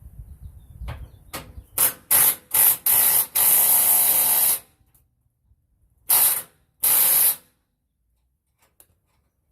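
Aerosol spray hissing in bursts: several short squirts, a longer spray of over a second, then two more short ones.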